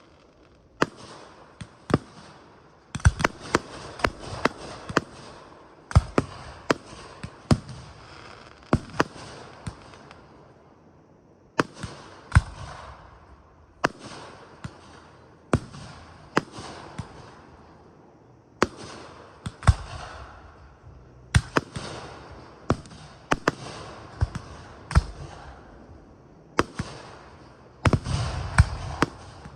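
Aerial fireworks bursting: sharp booms every second or so, each trailed by crackling and a hissing fall-off, with a dense rapid cluster of bangs near the end.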